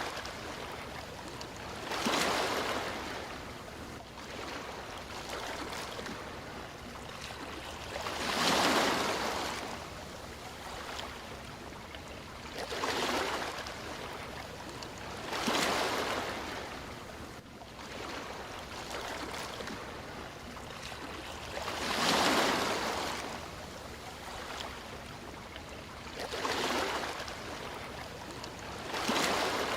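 Sea waves washing onto a shore: a steady wash of water with a surge every few seconds, seven in all, each swelling to a rush and falling back.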